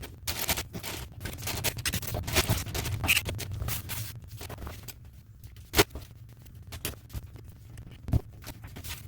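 Irregular scraping and scratching with scattered clicks, from hands and tools working on a pulled toilet. There are two sharper knocks, one just before six seconds in and one about eight seconds in.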